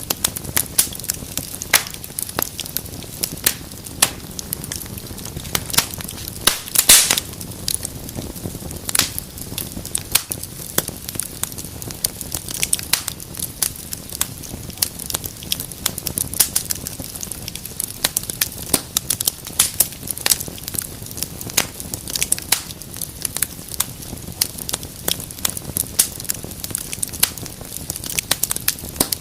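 Wood fire in a fireplace crackling, with a steady low hiss under frequent sharp pops and snaps; the loudest pop comes about seven seconds in.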